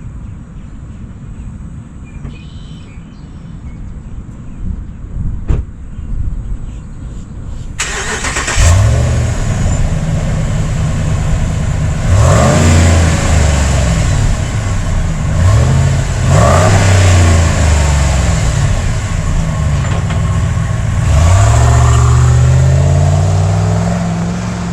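The pickup's 5.7-litre HEMI V8 with dual exhaust starts up about eight seconds in and is then revved several times, each rev rising in pitch before settling back.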